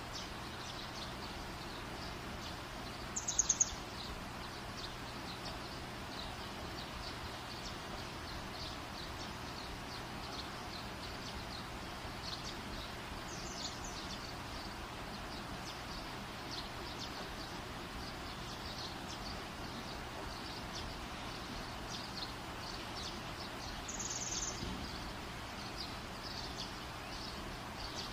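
Faint bird chirping over a steady background hiss, with two louder, high chirps about three seconds in and near the end.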